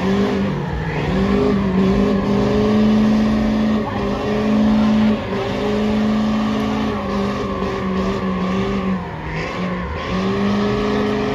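Truck engine held at high revs during a burnout, its pitch dipping briefly several times as the throttle lifts and comes back on.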